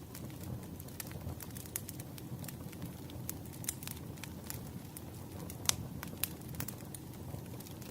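Wood fire crackling: irregular sharp pops and snaps over a low, steady rumble of flame, with one louder pop near the end.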